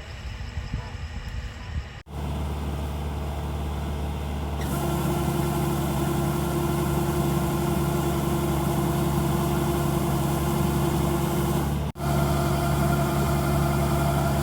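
Kubota DC-70G combine harvester's diesel engine running steadily, its hum cutting out for an instant twice, about two seconds and twelve seconds in; the first two seconds are quieter and uneven.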